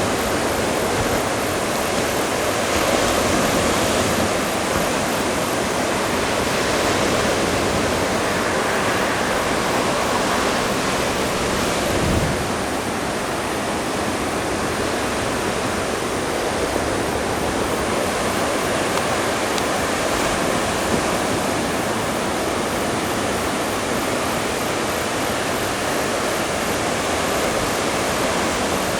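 Surf breaking and washing ashore in a steady, continuous wash with gentle swells as waves come in: rough sea raised by an approaching typhoon. A brief knock about twelve seconds in.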